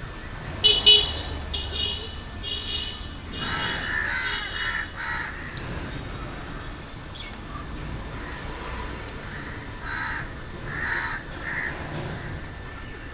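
Crows cawing in several bouts of short repeated calls: a run in the first few seconds, another about four seconds in, and more near the end.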